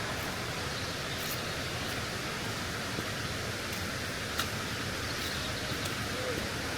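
Steady rushing of falling water, an even hiss with no change in level, with a single light click about four seconds in.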